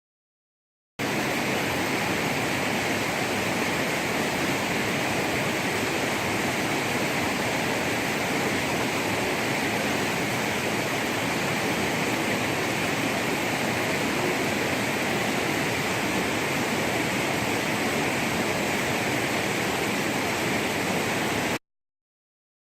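Steady rushing noise of running water, starting abruptly about a second in and cutting off abruptly near the end.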